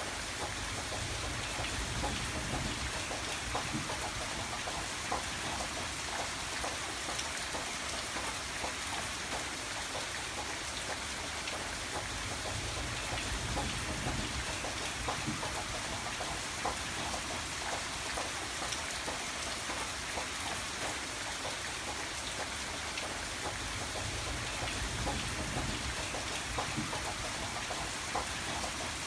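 Steady rain falling on a surface, a dense patter of drops, with a low rumble underneath that swells and eases every ten seconds or so.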